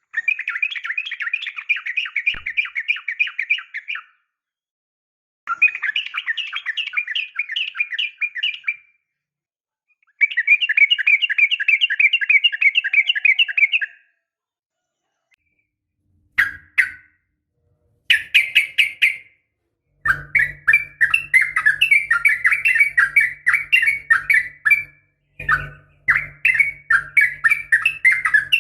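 Yellow-vented bulbul (trucukan) singing its rapid, chattering 'ropel' song: fast runs of repeated notes in phrases of about four seconds separated by short pauses, then two brief bursts, then near-continuous song with a low hum beneath from about two-thirds of the way in. It is offered as a female's call to rouse a male into answering.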